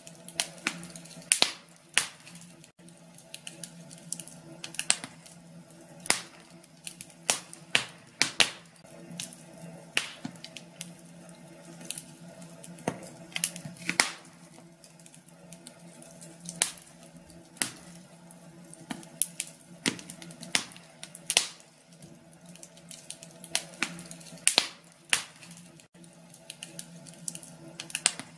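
Wood fire burning in a fireplace, crackling with irregular sharp pops, a few of them much louder than the rest, over a faint steady hum.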